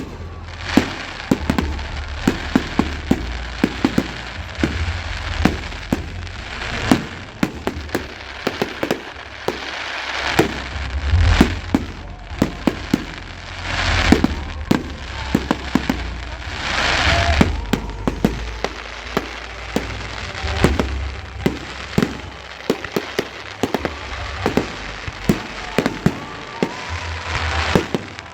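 Fireworks display going off: many sharp bangs and crackles in quick succession, with a few longer hissing swells.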